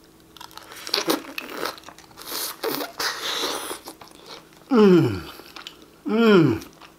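A person biting into and chewing a mouthful of balut, a boiled duck egg with embryo, with wet, irregular mouth sounds. About five and six seconds in come two drawn-out closed-mouth hums of enjoyment, the first falling in pitch, the second rising and falling.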